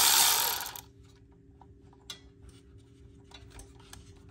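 A loud hiss for about the first second, then stops. After it come faint, irregular clicks and ticks of hand tools working on the exhaust bolts, ratchet-like.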